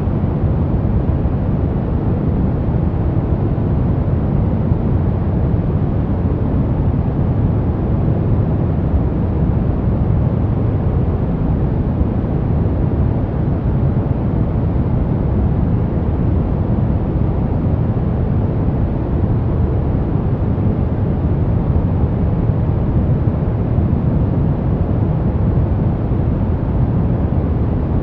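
White noise for baby sleep: a steady, unchanging rushing hiss with most of its weight low and deep, muffled at the top.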